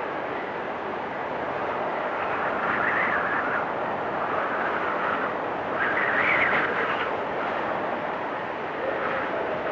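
Blizzard wind rushing steadily, with gusts that swell and whistle about three seconds and six seconds in.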